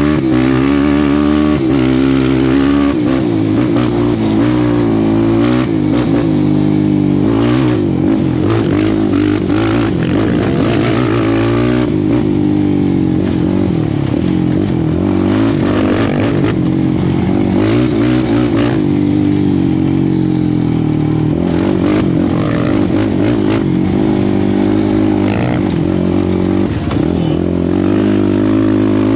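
Suzuki LT-R450 quad's single-cylinder four-stroke engine running hard while being ridden, its pitch repeatedly rising and falling as the throttle is worked.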